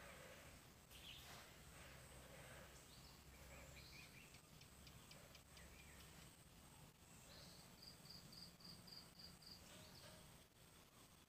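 Near silence: faint background ambience with distant bird chirps, including a quick run of about eight high chirps past the middle.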